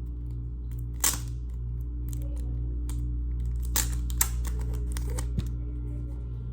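Handling and opening the packaging of a photo card set: a few sharp clicks and light crinkling, over a steady low hum. The loudest click comes about a second in, with more around the four-second mark.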